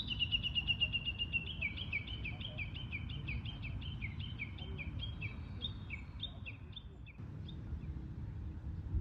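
A high chirping animal call, a fast trill that turns into alternating higher and lower downward chirps, about three a second, and stops about seven seconds in, over a steady low rumble.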